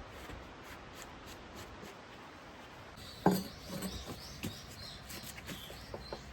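Steady background hiss, then a single sharp knock a little past halfway, followed by lighter knocks and a quick run of clicks and taps near the end, with a few short high chirps.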